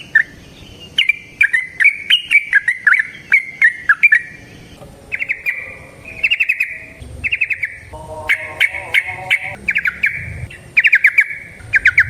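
Yellow-vented bulbul (trucukan) singing its rapid bubbling song: quick runs of notes in short phrases, repeated one after another, getting faster and more continuous from about five seconds in.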